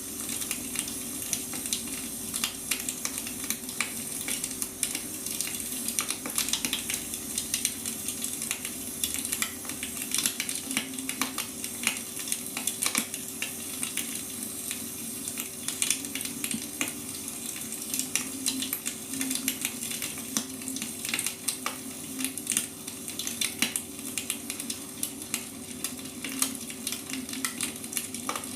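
Wood fire crackling, with many irregular sharp pops over a steady hiss.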